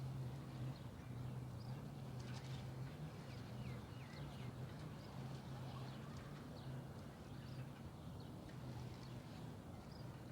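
Scattered short bird chirps over a steady low hum that swells and fades a little.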